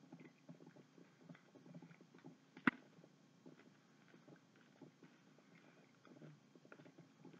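Faint chewing of candy-coated peanut M&Ms: a soft, irregular crunching, with one sharp click nearly three seconds in.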